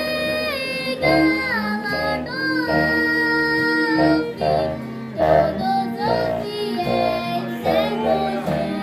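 A child singing a hymn melody in held notes that step up and down, over a low steady tone.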